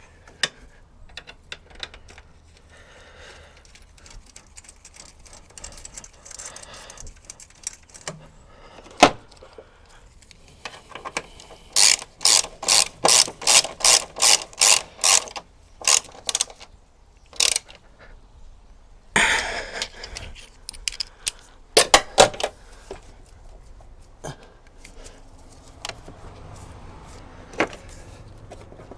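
Ratchet wrench tightening the strut brace bolts: a quick run of about a dozen ratcheting strokes starting about twelve seconds in, with tool clinks and metal handling knocks around it.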